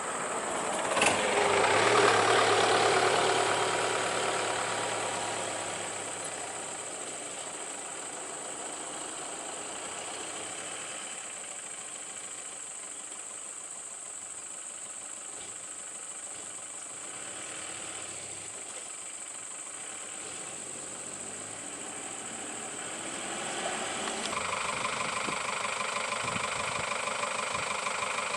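Truck engine idling. It gets louder for a few seconds about a second in, then settles, and changes to a steadier, fuller note near the end.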